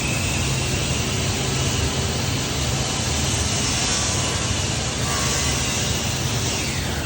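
Spray gun hissing steadily as it sprays sanding sealer or lacquer onto a white oak table, over a low steady hum. A whine rises as it starts and falls away near the end.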